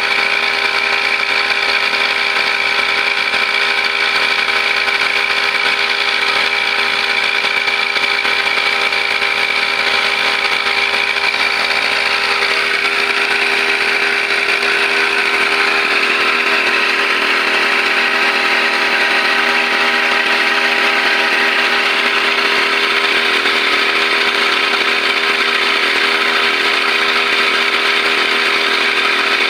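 Brush cutter engine running steadily at high speed, its pitch rising a little about halfway through.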